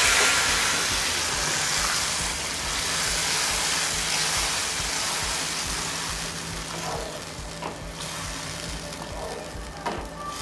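Tomato pulp sizzling in hot mustard oil in a kadhai just after it is poured in, the hiss loud at first and dying down steadily. A wooden spatula stirring it clicks against the pan a few times in the second half.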